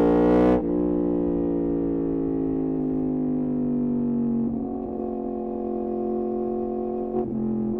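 Yamaha MT-10's crossplane inline-four running through an Austin Racing exhaust. The throttle closes about half a second in and the engine note falls slowly as the bike slows, then holds steadier, with a brief dip near the end.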